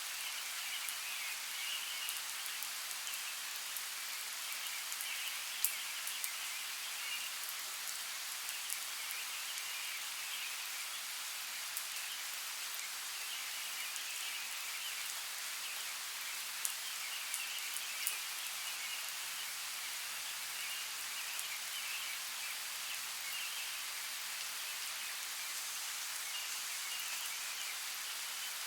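Steady rain with scattered sharp drop ticks, a few louder ones near the middle.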